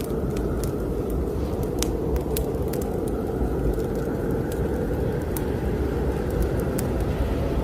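Steady low wind noise of a snowstorm, with the scattered sharp crackles of a wood fire burning in a fireplace.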